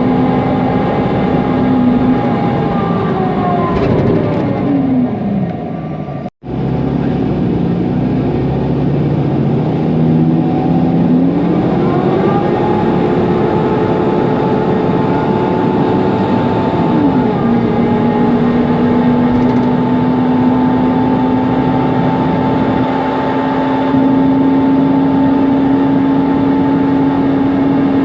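Inside a Mercedes-Benz Conecto NGT city bus, the loud whine of its thermostatic engine cooling fan over the drive noise. The whine falls away a few seconds in, cuts out for an instant, rises again about halfway through and then holds steady.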